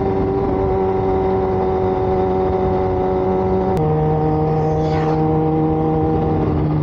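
Sport motorcycle's engine running at steady cruising revs under wind rush, from the rider's seat. About four seconds in, a click is followed by a step down in the engine's pitch as it shifts up a gear.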